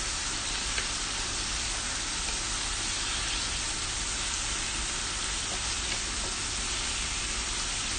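Pork belly slices and hotdogs sizzling steadily on a hot electric grill plate, with a couple of faint clicks.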